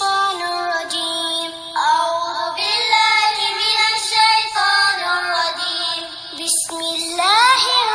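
A high, child-like voice reciting the Quran in slow melodic chant, holding long, wavering notes and gliding between pitches, with a short breath pause near the end.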